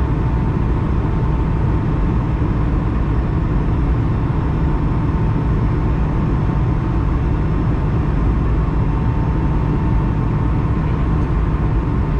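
Airbus A220-100 airliner with its Pratt & Whitney geared turbofan engines running steadily: a loud, even rumble with a constant whine on top.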